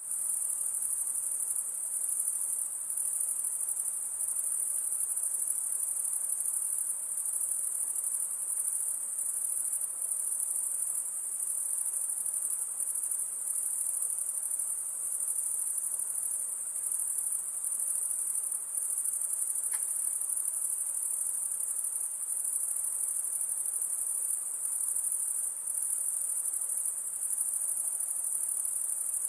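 A chorus of crickets chirping at night, a steady, dense, high-pitched trilling with a slight pulsing.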